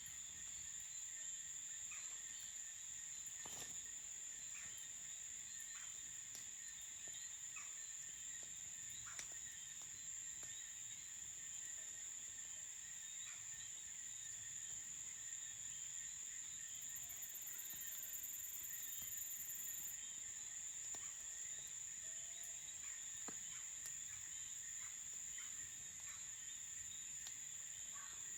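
Crickets chirping in a steady high trill, with a layer of pulsing chirps beneath it and scattered faint clicks.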